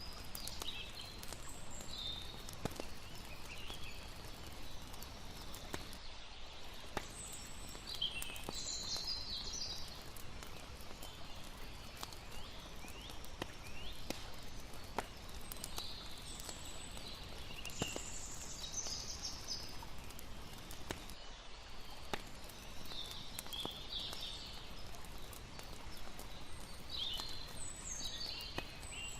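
Night ambience: a campfire crackling with scattered sharp pops, patches of high chirping calls, and a steady hiss of lapping water underneath.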